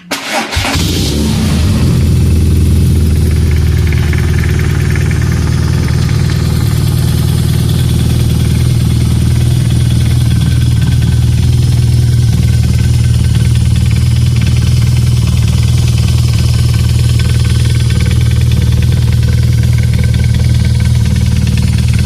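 BMW R nineT's air/oil-cooled boxer twin, fitted with an Akrapovic exhaust, starting up and catching within about a second, then idling steadily with a deep, even exhaust note.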